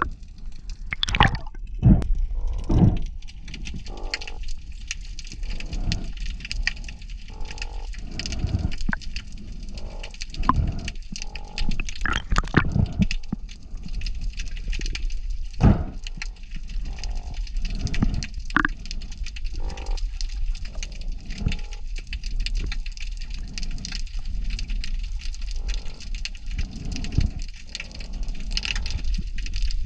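Water sloshing and gurgling around a diver's camera, with irregular short splashes and knocks every second or two over a steady hiss.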